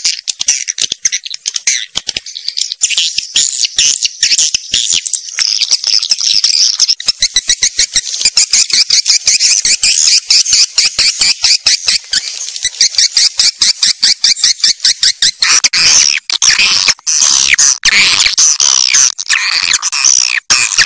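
Swiftlets calling: a dense, rapid chatter of high chirps and clicks, joined about three-quarters of the way through by longer, sweeping squeaks.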